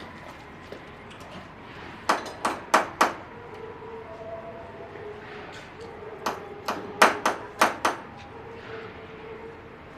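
Two quick runs of sharp, evenly spaced knocks: four about two seconds in, then about six more a few seconds later, over a faint held tone.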